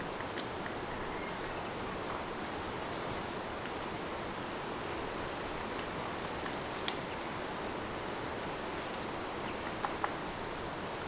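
Steady rain ambience with a high-pitched insect trill that comes and goes in short stretches throughout. A few sharp ticks stand out, the loudest near the end.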